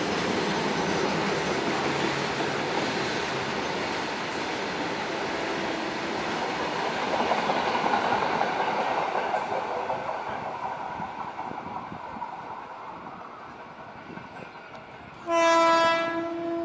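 Train running on the rails as the WAG-7 electric locomotive and its coaches approach: a steady rumble that swells toward the middle and then fades. Near the end, one loud blast of the locomotive's horn, a little over a second long.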